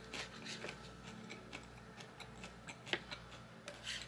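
Faint, scattered wet clicks of someone chewing food, with a couple of sharper clicks near the end.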